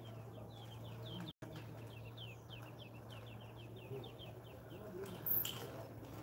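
A bird giving a rapid run of short, high chirps, about five a second, for around four seconds, over a steady low hum; a sharp click a little after five seconds in.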